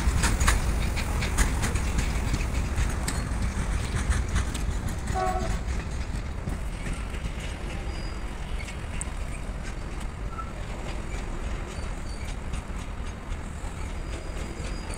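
Loaded double-stack container freight train rolling past and pulling away, its wagon wheels clattering over rail joints, the rumble fading as the last wagons recede. A short horn-like toot about five seconds in.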